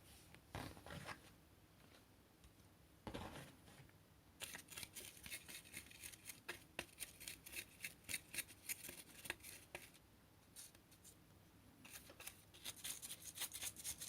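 Faint handling noises: short scrapes about half a second and three seconds in, then quick irregular runs of light clicks and rattles through the middle and again near the end, as small hard parts are handled.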